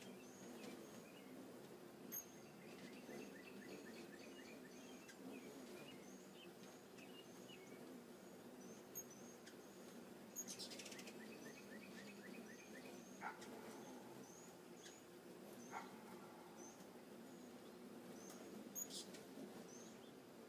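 Faint bird calls: a high chip repeated about twice a second, with a few short runs of quick, lower down-slurred notes, over a low steady background hum. A few sharp clicks stand out, about two, ten and nineteen seconds in.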